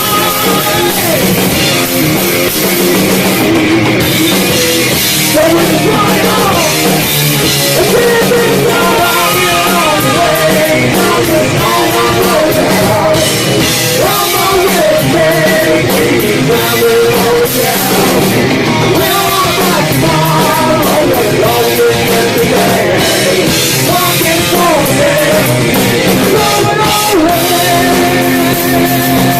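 Live metal band playing loudly, with electric guitar and drum kit.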